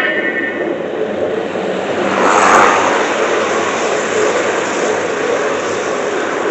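Model train running on a layout: a steady rolling rumble, with a brief louder rush about two and a half seconds in.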